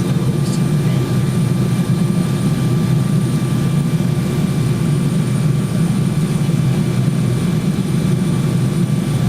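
Jet airliner cabin noise: the engines and the rush of air past the fuselage, heard from inside the cabin as a steady low rumble with a few faint steady whines above it.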